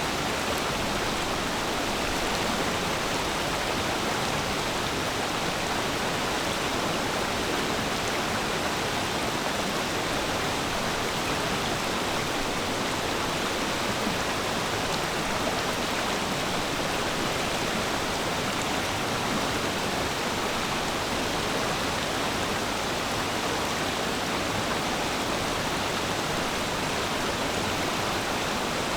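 Stream flowing, a steady, even rush of water without breaks.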